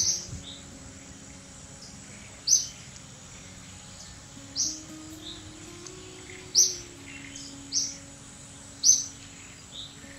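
A bird calling from the trees: about six sharp, short high chirps spaced a second or two apart, with softer, lower notes in between.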